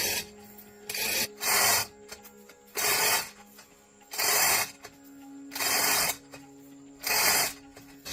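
Repeated rasping strokes of a hand tool scraping or filing a surface, about six long strokes at a steady pace of roughly one every second and a half.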